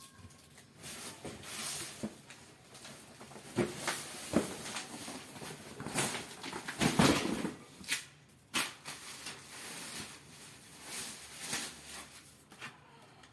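Irregular knocks, taps and rustling, as of hands handling and working materials, with the loudest cluster about seven seconds in.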